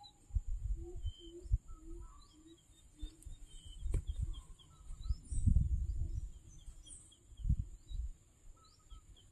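Swiftlets (seriti) twittering: many short, quick chirps, some in slurred runs, with lower repeated notes underneath. Low rumbles hit the microphone several times, loudest about five to six seconds in.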